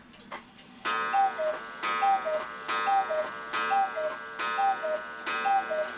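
1967 New England cuckoo clock calling six times: each two-note falling cuckoo call, from the bellows and pipes, comes with a ringing strike on the gong, about one call per second.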